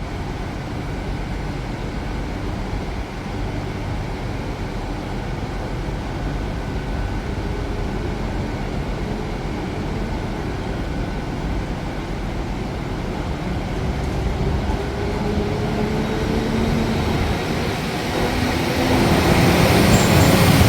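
Transport for Wales Class 197 diesel multiple unit pulling away under power: a steady low engine rumble with a slowly rising whine from about twelve seconds in, growing louder near the end.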